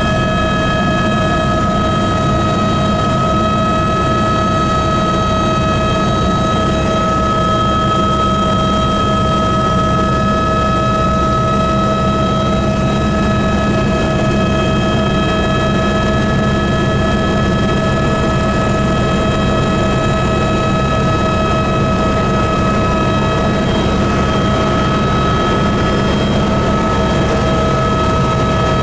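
Helicopter running steadily in flight: a loud, even rumble with several steady high whining tones over it.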